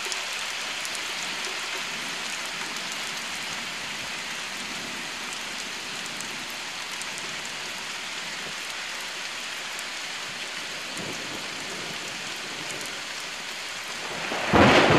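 Steady rain falling, an even hiss. A sudden loud burst of noise comes in near the end.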